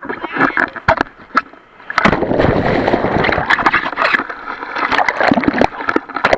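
Sea water splashing and sloshing, growing into a loud, continuous wash about two seconds in, with sharp clicks through it.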